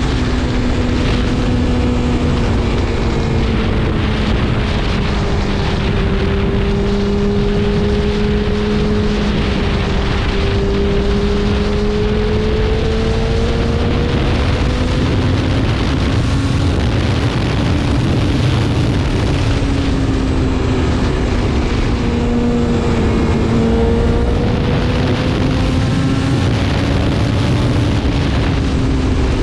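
BMW S1000RR inline-four engine running at a fairly steady cruise, its pitch sagging slowly and then climbing back up without sharp revving, with wind rushing over the microphone.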